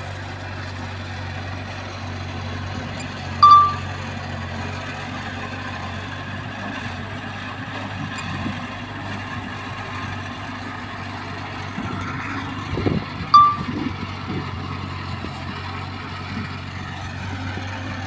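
Heavy diesel machinery engine running steadily, with two short high beeps about ten seconds apart and a spell of knocking and clanking between them.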